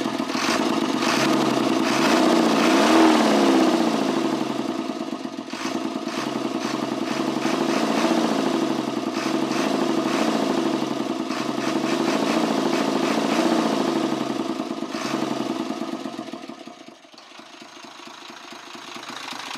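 Six-cylinder 24-valve FE6 truck diesel engine idling, heard at its open intake pipe, with a rhythmic 'chup chup' chuffing. The mechanic puts the chuffing down to leaking valve seats in the cylinder head letting pressure back into the intake. The pitch wavers up and down as it runs, there are a few sharp knocks, and it gets quieter near the end.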